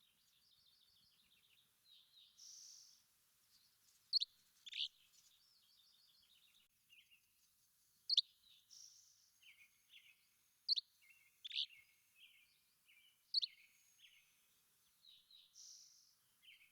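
Several birds calling and singing: loud sharp chip notes repeat every few seconds, with short down-slurred whistles and quieter rapid trills between them.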